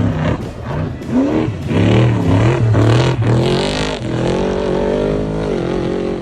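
Off-road race vehicle engines revving and accelerating hard, the pitch rising and falling several times, then running at a steadier pitch in the second half.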